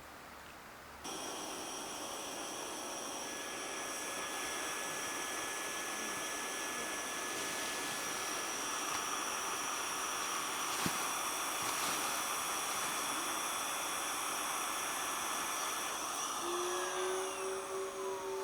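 A small motor-driven machine whirring steadily, switched on suddenly about a second in, with a high whine over a rushing noise; near the end its pitch shifts and a falling tone is heard.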